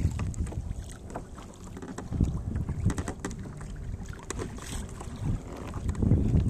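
Kayak paddling on open water: paddle strokes with scattered splashes and drips, over wind buffeting the microphone in low, uneven gusts.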